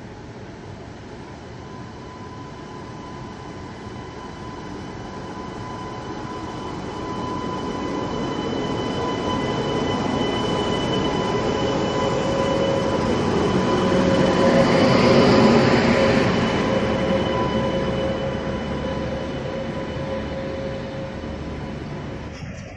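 Indian Railways electric locomotive train passing close by on the rails: the running noise of wheels and locomotives swells, peaks about fifteen seconds in and fades as the train rolls past, with steady whining tones throughout.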